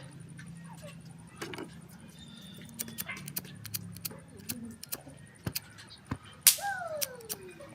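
Scattered small metallic clicks and clinks of parts being handled, with one louder knock about six and a half seconds in followed by a short falling squeak.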